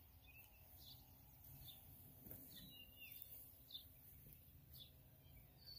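Near silence with faint, short bird chirps scattered through it, several times.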